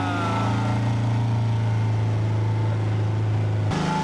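Motorboat engine running with a steady low note, which switches suddenly to a different, higher engine note near the end.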